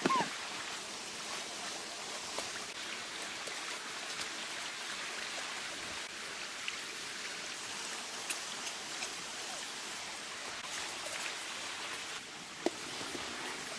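Steady rush of flowing river water, with a few faint ticks and a short falling whistle right at the start.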